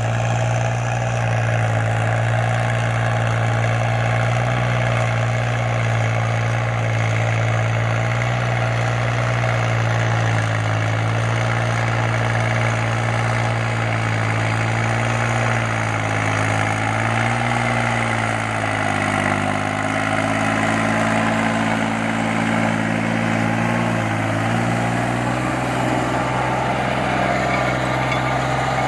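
New Holland tractor's diesel engine running steadily, its pitch shifting slightly between about 16 and 25 seconds in.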